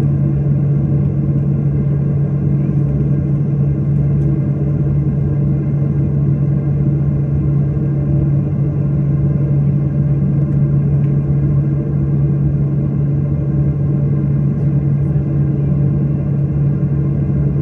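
Airliner's engines running with a steady, unbroken drone, heard from inside the passenger cabin.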